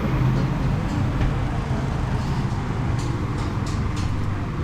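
Truck engine running with a steady low hum and road noise, as on the move, with a few light ticks in the second half.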